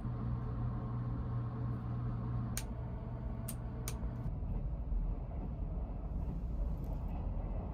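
Steady hum and rumble inside a train carriage, with a few sharp clicks near the middle. The low hum drops out a little past halfway, leaving a rougher rumble.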